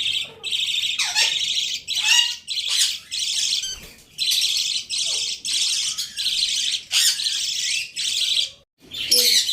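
Common myna giving a long run of short, harsh screeching calls, about two a second, with a brief break near the end.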